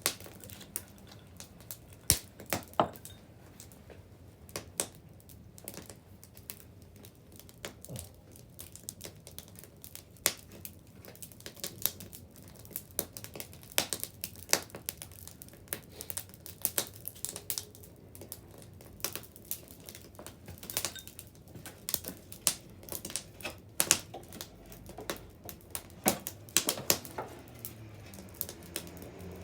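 A wood bonfire crackling, with irregular sharp pops and snaps, some much louder than others.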